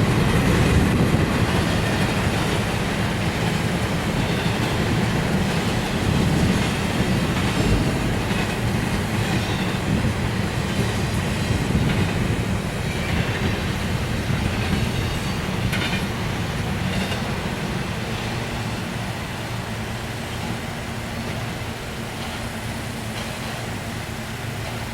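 Freight cars of a Norfolk Southern intermodal train rolling past, a steady rumble with wheels clicking over the rail joints. It grows gradually quieter over the second half.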